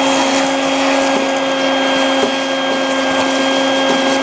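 Vacuum running steadily with a constant whine, sucking leaves and debris out of an air-conditioning unit during a cleaning.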